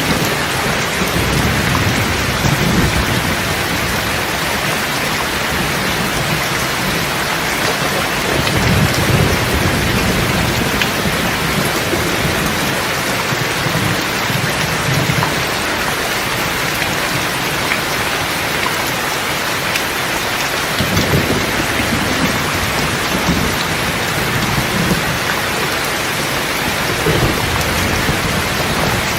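Steady rain hissing, with low rolls of thunder that rumble up and fade several times.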